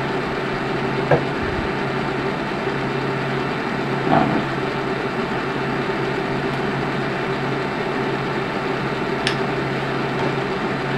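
Steady low hum with a constant hiss, broken by a few faint clicks.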